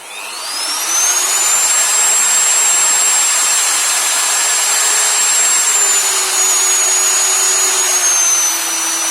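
Interskol MF 40/1000E electric router switched on: its motor whine rises over about a second and a half as the soft start brings it up to speed, then runs steadily at high speed. The pitch steps down twice, about two-thirds of the way through and near the end, as the speed selector is turned down.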